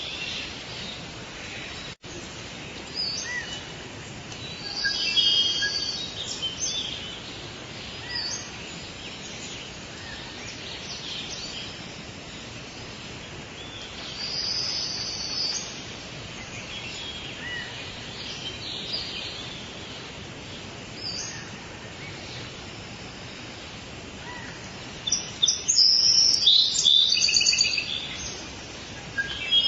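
Forest birds calling and chirping in short scattered phrases over a steady background hiss, with a louder cluster of rapid calls about 25 seconds in.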